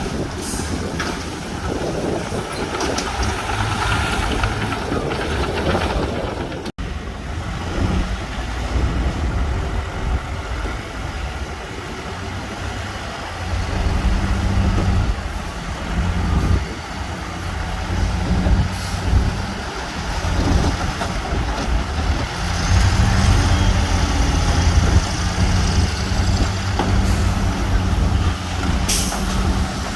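Heavy diesel construction machinery, bulldozers and dump trucks, running steadily under load, with a few short sharp noises on top. The sound breaks off for an instant about seven seconds in.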